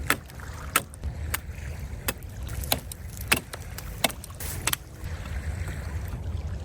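About nine sharp knocks, fairly evenly spaced around two-thirds of a second apart, stopping about five seconds in. Under them runs a steady low rumble of wind on the microphone and surf on the lake shore.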